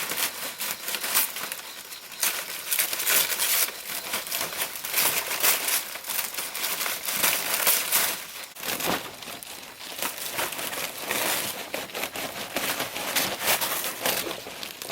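Dry leaves being handled, rustling and crackling continuously with irregular sharp crackles and the occasional tearing sound.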